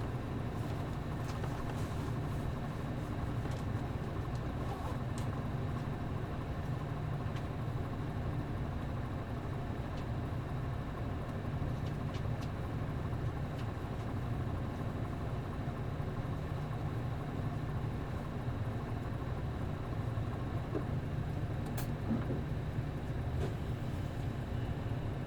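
MD92TJ diesel engine of a route bus idling steadily while the bus stands at a stop, with a few faint clicks.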